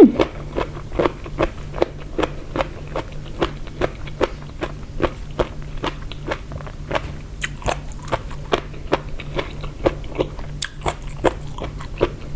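Close-up chewing of crunchy pickled jellyfish in a spicy seafood salad: a steady run of crisp crunches, about three a second.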